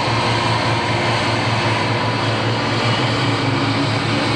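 Turbocharged diesel engine of a super stock pulling tractor running loud and steady at high revs, with a faint high whine over the engine drone.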